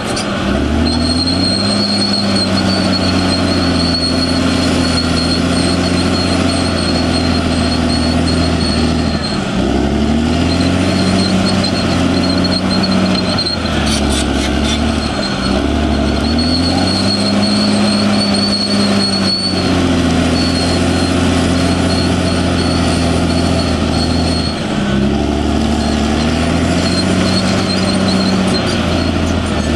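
Caterpillar D6R XL bulldozer's diesel engine working under load, its note dipping and recovering every few seconds as it pushes, with a thin high whine that comes and goes.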